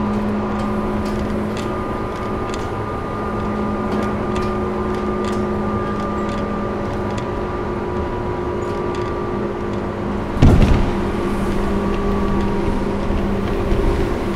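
Tobu 10000-series electric train running at a steady speed, heard inside a motor car: a steady motor and gear hum with light wheel clicks over rail joints. About ten seconds in, a sudden loud whoosh as a train on the adjacent track passes close alongside, its rushing noise going on after it.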